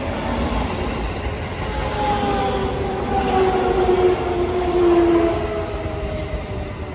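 Shin-Keisei 8800 series electric commuter train passing close by, its wheels rumbling steadily on the rails. A whine falls slowly in pitch through the middle of the pass.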